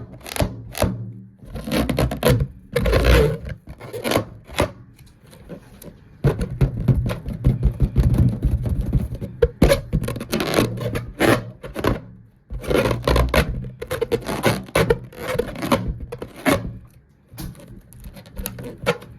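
Repeated, irregular scraping and rubbing strokes, some short and some drawn out, with brief pauses between.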